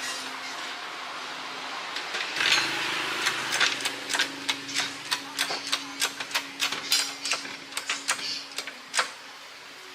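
A steady low hum, then from about two and a half seconds in a run of sharp, irregular clicks and knocks, a few a second, from hand-tool work on a car wheel.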